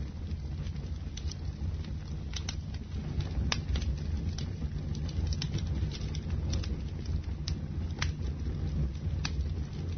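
Bonfire burning: a steady low rush of flames with irregular sharp crackles and pops from the burning wood, a few each second.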